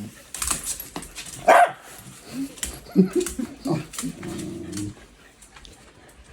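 Dogs yipping and whimpering: one sharp yelp about a second and a half in, then a string of short whines and yips that fade out near the end.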